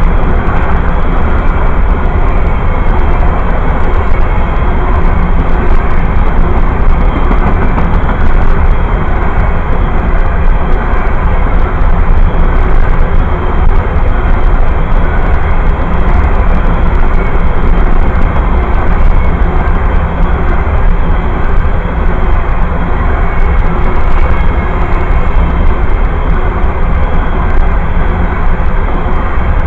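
Freight train passing close by: a steady, loud rumble and rattle of cars rolling on the rails, without a break.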